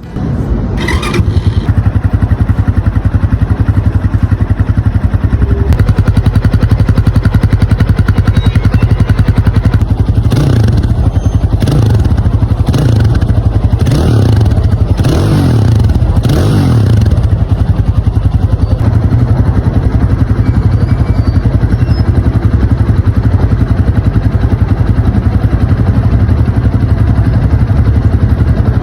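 Italika TC300 motorcycle engine starting and catching right at the beginning, then idling steadily. In the middle it is revved in about six quick blips, each rising and falling, before settling back to idle.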